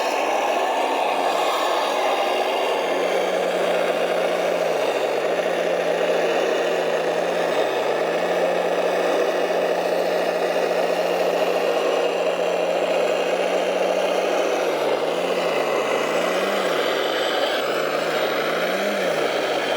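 Radio-controlled model trucks running, a steady mechanical whir with a low engine-like hum. The hum's pitch steps up and down with the throttle, most often near the end.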